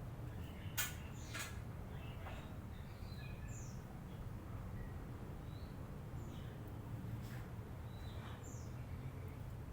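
Lovebirds chattering with short, scattered high chirps and squeaks, over a steady low hum. Two sharp clicks about a second in.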